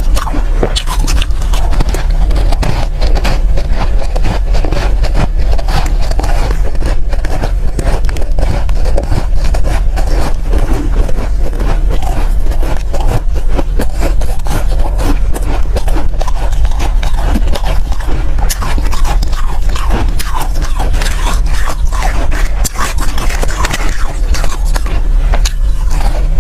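Soft shaved ice being crunched and chewed close to the microphone: a dense, continuous run of crisp crackling crunches over a steady low hum.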